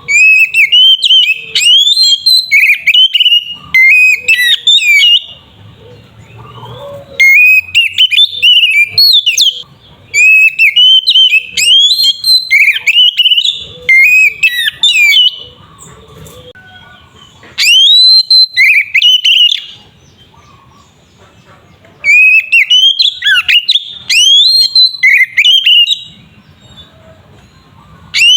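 Oriental magpie-robin (kacer) singing loudly in full song, with rapid whistled phrases of sweeping notes. The song comes in bursts of a few seconds separated by short pauses.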